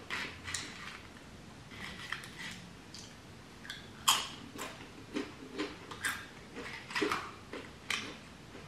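Close-miked sounds of a person eating: chewing and mouth smacks with small clicks, coming irregularly about two times a second.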